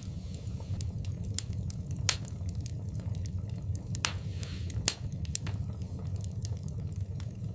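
Fire in a fireplace crackling: a steady low rumble of the flames with sharp pops scattered throughout, two louder ones about two and five seconds in, and a brief hiss just after four seconds.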